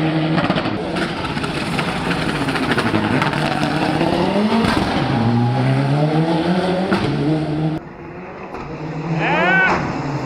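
Turbocharged four-cylinder engine of a Mitsubishi Lancer Evolution VI hill-climb car at full attack, revs climbing and dropping repeatedly through gear changes and corners. About eight seconds in the sound turns abruptly quieter and duller, and a sharp rising-then-falling whine follows near the end.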